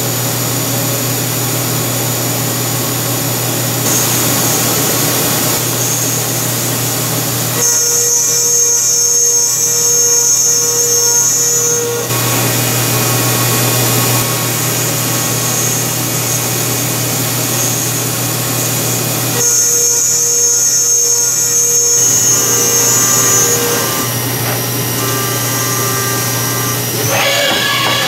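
Haas VF-2 CNC mill milling a part, its spindle running with a steady high whine over a low hum. Twice the cut grows louder and takes on extra ringing tones, from about 8 s to 12 s and from about 20 s to 23 s, and near the end the spindle winds down with a falling whine.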